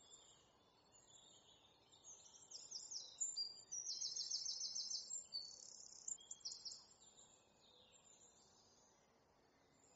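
Birds singing: a run of high chirps and a fast, rapidly repeated trill in the middle, over a faint steady background hiss.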